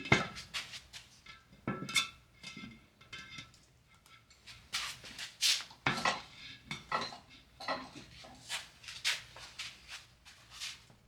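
Irregular metal clinks and knocks, a dozen or more, some early ones ringing briefly, from tools and metal parts being handled at a manual tire changer.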